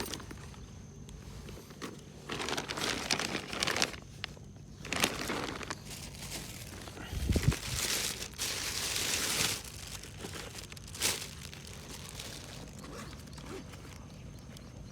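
Intermittent rustling and crinkling handling noise in several uneven bursts, the longest about halfway through, with a short sharp one near the end.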